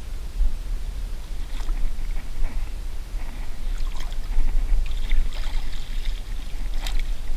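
Creek water sloshing and splashing, with a few sharp splashes or clicks, the sharpest near the end, over a steady low rumble.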